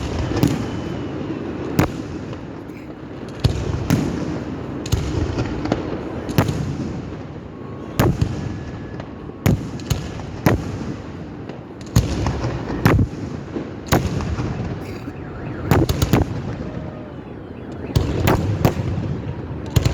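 Fireworks display: sharp shell bursts at irregular intervals, about one a second, over a continuous low rumble of further explosions.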